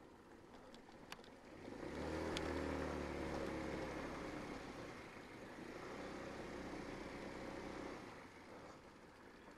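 Sinnis Shuttle's engine running as the bike rides on, swelling about two seconds in as the throttle opens, holding steady, then easing off near the end. A single click sounds about a second in.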